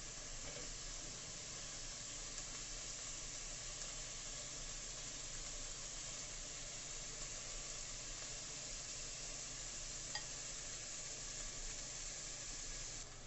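Strips of seasoned beef sizzling in hot olive oil in a pan, a steady frying hiss as the pieces are laid in, with a small utensil click about ten seconds in.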